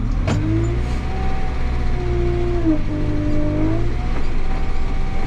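JCB 3CX backhoe loader's diesel engine running under way, heard from the cab: a steady low drone with a whine over it that starts suddenly, dips in pitch partway through and fades near the end.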